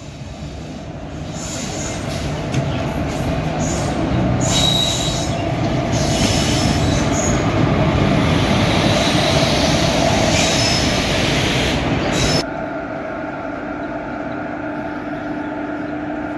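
WAP7-hauled express train rolling into a station, its wheels squealing over a rising rumble. About twelve seconds in the sound drops suddenly to a quieter steady hum.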